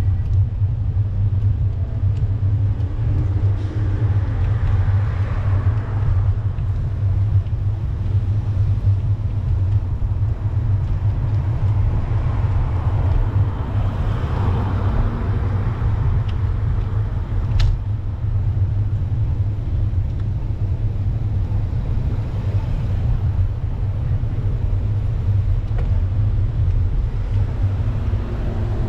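Steady low rumble of wind buffeting the microphone of a camera on a moving bicycle, with road traffic swelling past about five seconds in and again around twelve to fifteen seconds in, and one sharp click near eighteen seconds in.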